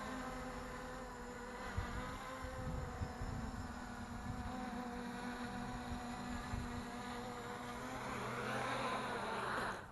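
Motors and propellers of a 3D-printed DJI Mavic clone quadcopter buzzing steadily, with wind gusting on the microphone. Near the end a rising whine builds, then the sound cuts off suddenly.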